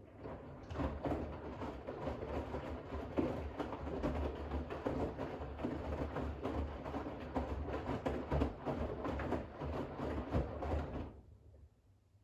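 Bosch WAX32GH1 front-loading washing machine in its rinse: the drum turns with a load of wet towels, which splash and tumble in the water over a low motor hum. This is one drum rotation period: it starts at once and stops abruptly near the end as the drum pauses.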